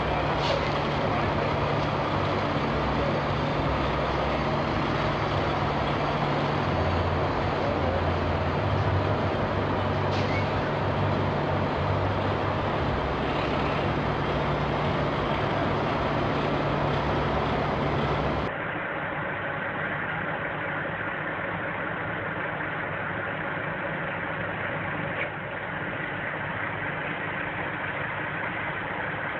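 Heavy truck's diesel engine running steadily with a low hum. About two-thirds of the way through the sound cuts to a duller, quieter recording of engine running.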